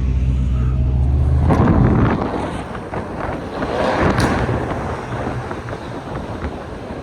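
Car engine running with a low, steady drone, then revved hard about a second and a half in, a loud rough exhaust note that fades away over the next few seconds. The car's muffler and resonator have been deleted.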